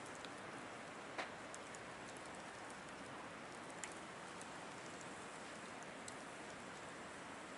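Thick firewood burning in a campfire: a steady hiss with scattered sharp crackles and pops, the loudest about a second in.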